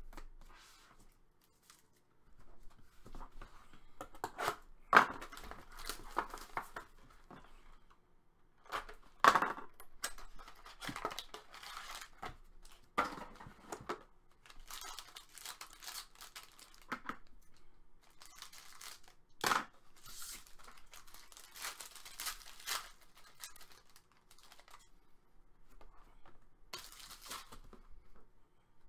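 Trading card pack wrappers being torn open and crinkled by hand, with cards being handled. It comes in irregular bursts of tearing and rustling with short pauses, and the sharpest tears fall about five and nine seconds in.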